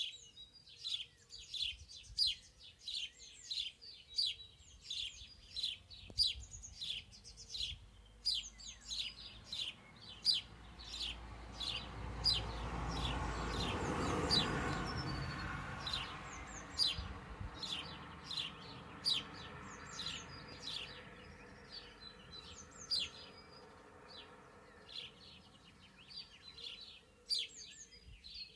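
Songbirds chirping in a spring forest, short high notes repeating several times a second. A low, distant engine drone swells to a peak about halfway through and fades away again beneath the birdsong.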